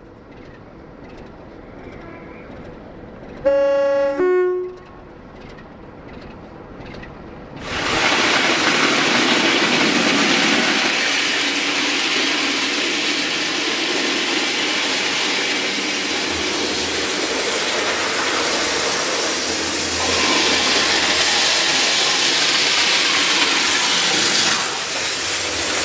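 A train horn sounds two notes, a high one then a lower one, about four seconds in. From about eight seconds comes the loud, steady noise of a train running past.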